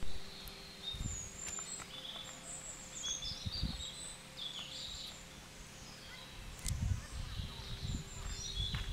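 Small birds chirping and calling in a pine forest, short high chirps scattered throughout, over low irregular rumble from walking with the camera.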